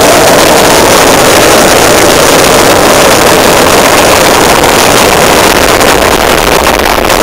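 A massive fireworks barrage of black-powder firecrackers going off so fast that the blasts merge into one continuous, unbroken din. It is very loud throughout.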